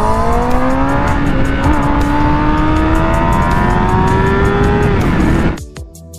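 Kawasaki ZX-10R superbike's inline-four engine accelerating hard, its note climbing steadily for about five seconds with a brief hitch early on, then cutting off near the end. Faint music plays underneath.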